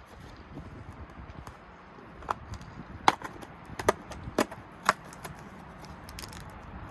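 A hand-held unboxing: a run of about five sharp clicks and snaps, spaced roughly half a second apart, between about two and five seconds in, as small plastic pieces or packaging are handled.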